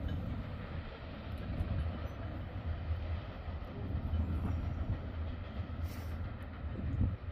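Rear cars of a freight train of tank cars rolling away over the rails. The wheels on the track make a steady low rumble.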